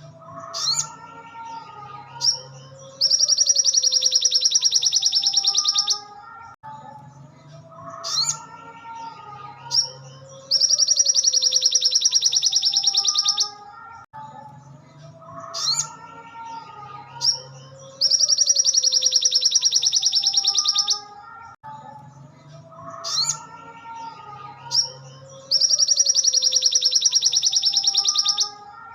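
Looped bird-song training recording of a sogon trotol. A loud, very rapid high trill lasting about three seconds comes back roughly every seven and a half seconds, with quieter lower warbling phrases between the trills.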